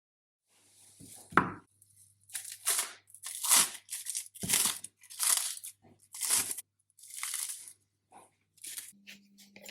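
A series of rasping tearing strokes, about one a second, with a sharp knock about a second and a half in.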